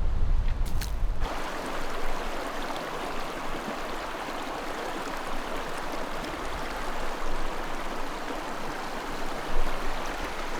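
Wind buffeting the microphone for about a second, then a steady rush of flowing creek water.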